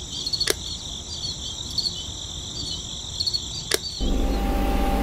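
Insects, crickets by their sound, chirping steadily in a high band, with two sharp clicks. About four seconds in it cuts abruptly to the steady hum of a small motor running.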